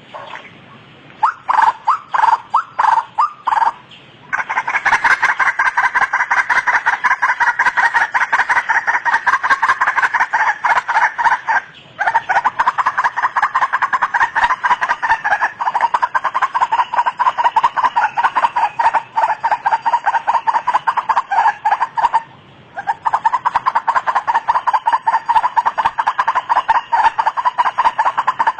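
White-breasted waterhen (ruak-ruak) calling. A few separate notes come first, then from about four seconds in a fast run of repeated notes that breaks off briefly twice.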